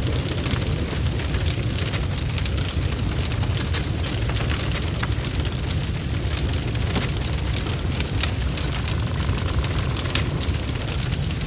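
Wood fire crackling and popping, with frequent sharp snaps over a steady low rumble of the flames.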